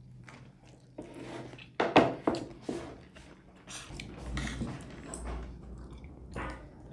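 People eating: chewing and biting food close to the microphone, with a few sharp clicks and crackles about two seconds in.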